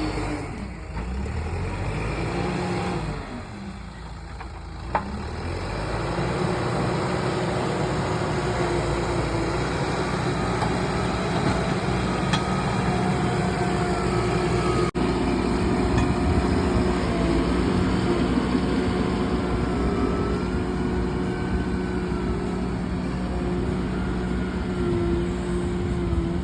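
Diesel engine of a heavy machine, tractor or JCB-type, running steadily. It eases off about three seconds in and picks back up around five seconds.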